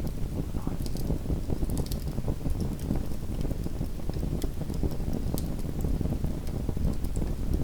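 Small wood fire crackling in a fireplace: a steady low rumble of flame with scattered sharp crackles and pops.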